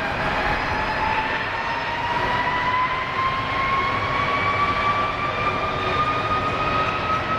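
Jet airliner engines running: a steady rumble with a whine that rises slowly in pitch.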